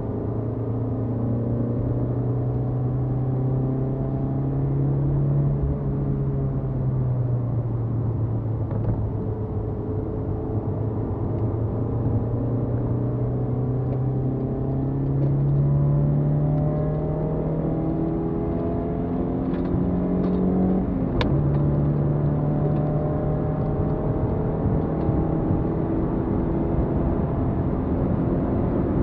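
BMW E30 318is's four-cylinder engine heard from inside the car under hard acceleration, its pitch climbing through the revs. About three-quarters of the way through it breaks off briefly for an upshift, then drops in pitch and climbs again.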